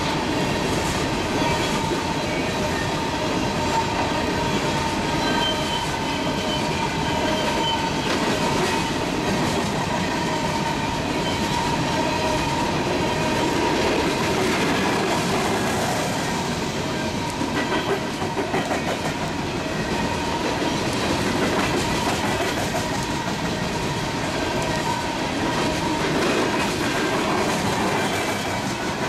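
Freight train of open-top coal cars rolling past, steel wheels rumbling and clicking on the rails with a steady ringing tone from the wheels.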